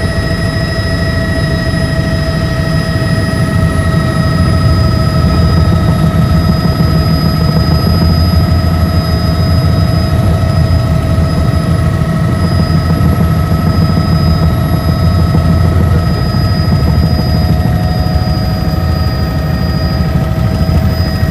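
Helicopter in flight: a loud, steady low rotor and engine rumble with several high, steady whining tones over it.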